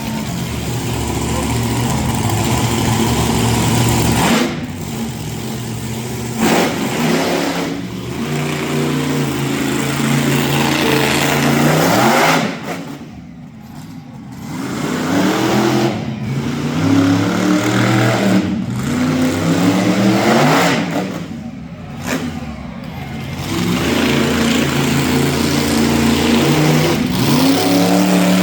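Monster truck engine revving hard, its pitch climbing and falling again and again as the throttle is worked, with brief lulls about halfway through and again about three-quarters of the way in.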